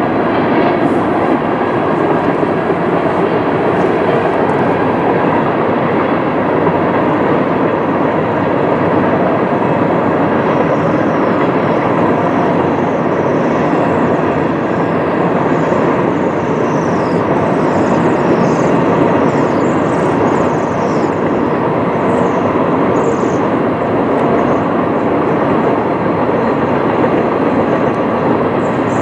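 A long CN freight train of tank cars and autoracks rolling past, a steady rumble of steel wheels on rail. From about ten seconds in, short high squeals come and go over it.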